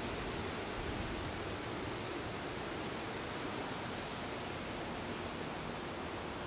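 Freight train of tank wagons rolling away on the rails: a steady distant rumble and hiss of wheels on track, slowly fading.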